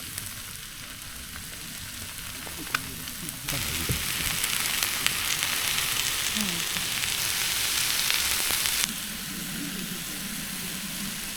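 Beef sizzling as it cooks, a steady frying hiss that gets noticeably louder about three and a half seconds in and drops back near the end, with a few small crackles and pops.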